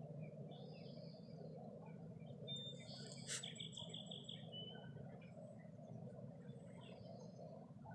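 Wild songbirds chirping sparsely over a steady low background noise. About three seconds in, one bird gives a louder sharp note that runs into a rapid trill lasting about a second.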